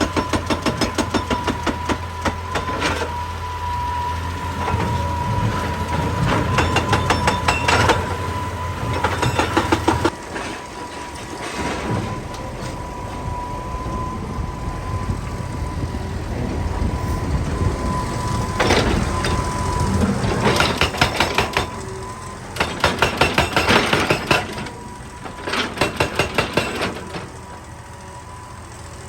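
Excavator-mounted hydraulic rock breaker hammering rock in bursts of rapid, evenly spaced blows, each burst lasting one to a few seconds, with the excavator's diesel engine running between bursts.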